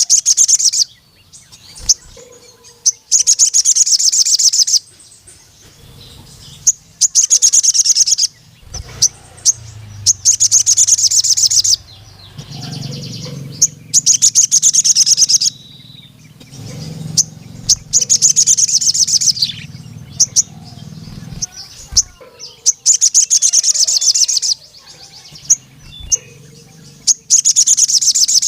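Male crimson sunbird (sogon) singing: a series of fast, high trills, each lasting one to two seconds and repeated every few seconds, with short sharp chip notes between them. A low hum runs underneath through the middle stretch.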